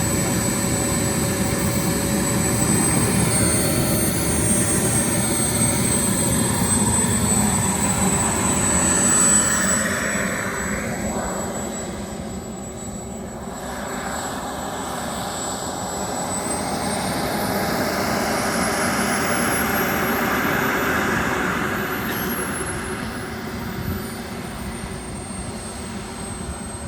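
Model jet turbine running with a high whine and a rushing roar. Its pitch and loudness rise and fall over several seconds, loudest in the first third, dipping about halfway through, then swelling and fading again.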